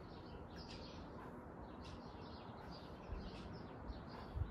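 Small birds chirping repeatedly in the background over a low steady noise floor, with a couple of soft low thuds near the end.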